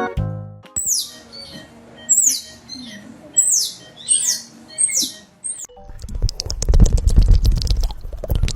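A small animal's high, sharp calls: five quick squeaks, each falling steeply in pitch, about a second apart. About halfway through they give way to a few seconds of loud rustling, scuffling noise.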